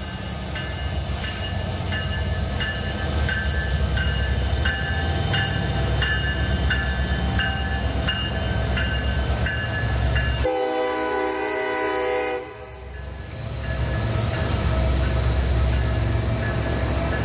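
N scale model train running past with a steady rumble and light, regular clicking about three times a second as its wheels pass the rail joints. About ten seconds in, a train horn sounds for about two seconds.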